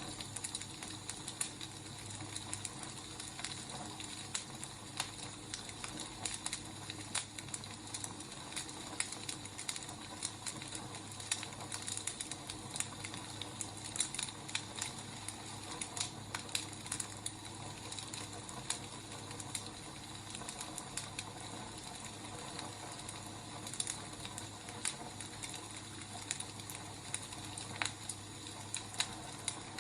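Wood fire burning, with a steady hiss and frequent irregular sharp crackles and pops from the logs.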